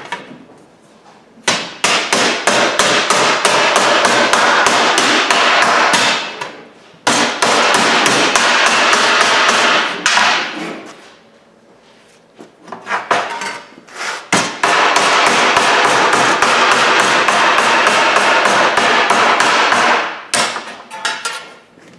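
Hammer pounding an 18-gauge steel cab brow panel to form its curve: rapid, even blows about five a second, in three long runs with short pauses between.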